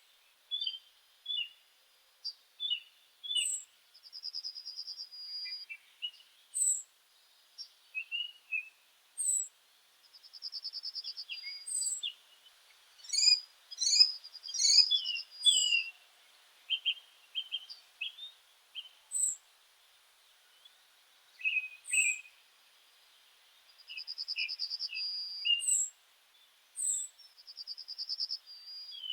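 Birds singing: a run of short, high chirps and whistled notes with trills, busiest about halfway through.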